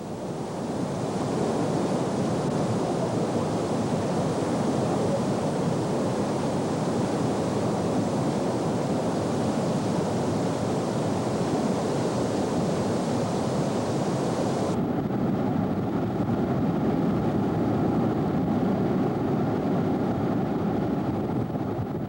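Heavy flood water rushing down a Hoover Dam spillway, a loud steady rush of water. About fifteen seconds in, the hiss drops away and the sound turns duller.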